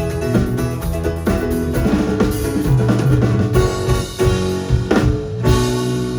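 Live band music with guitar and drum kit; about five and a half seconds in a sharp hit lands and a chord rings on.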